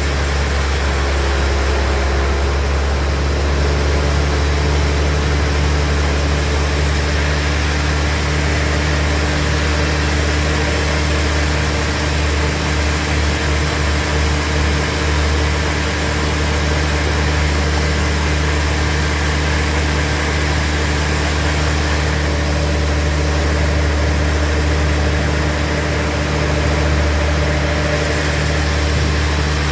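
Sawmill band saw machinery running with a steady, unbroken drone.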